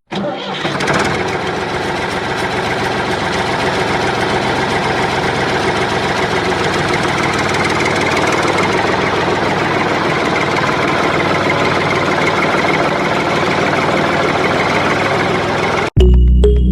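Small electric motor of a DIY model wheat-cleaning conveyor machine running steadily, with a dense buzzing mechanical noise; it cuts off suddenly near the end.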